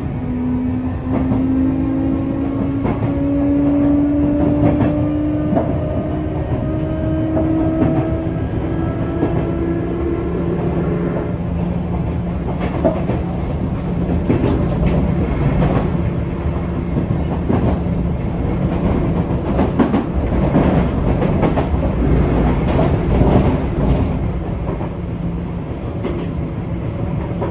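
Sotetsu 8000 series train's Hitachi GTO-VVVF inverter and traction motors whining as it accelerates, several tones rising steadily in pitch. About eleven seconds in the rising tones stop, leaving a steady low hum and running noise with clicks of the wheels over rail joints.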